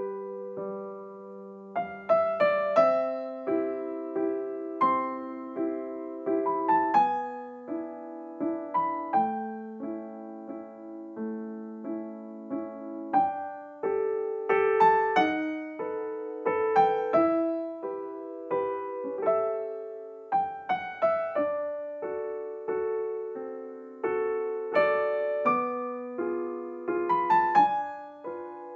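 Gentle background piano music: a slow melody played over held chords.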